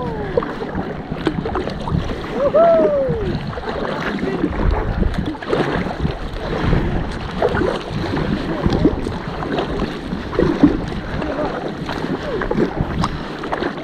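Kayak paddling on a lake: paddle blades dipping and water splashing and lapping against the hull, with wind buffeting the microphone.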